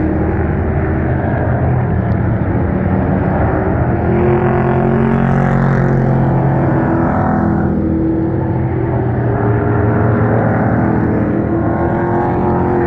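A field of Pro Truck racing trucks running laps on a short oval track, several engines sounding at once, their pitch rising and falling as the trucks come past and go away.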